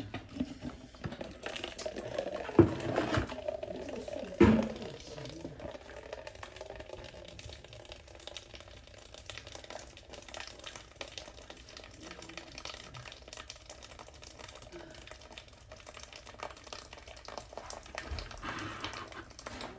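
Two sharp knocks about two seconds apart, then faint, steady water sounds with small handling clicks while the hot water heater's clogged sight-glass fitting is worked on.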